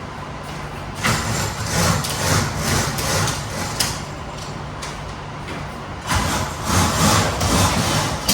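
Two long, rolling rumbles of thunder, each lasting about three seconds and swelling and fading unevenly, over a steady background.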